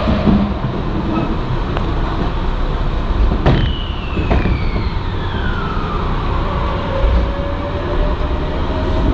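Electric passenger train running on rails, heard from on board: a steady rumble with two sharp clicks a little over three seconds in, and a high whine that glides down in pitch over the next few seconds.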